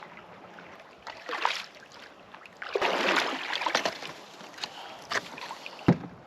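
Kayak paddle strokes swishing and splashing through lake water, with a sharp knock near the end.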